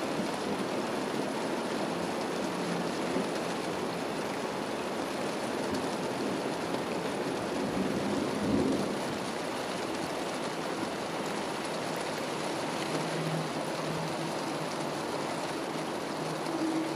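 Rain falling steadily in a thunderstorm, an even hiss throughout, with a brief low rumble about halfway through.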